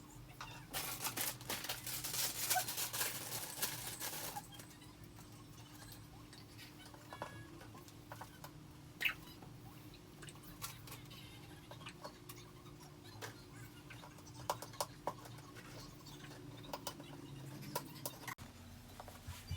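Plastic parts of a balloon stand being handled and fitted together: dense rustling and clicking for the first few seconds, then scattered light clicks and taps.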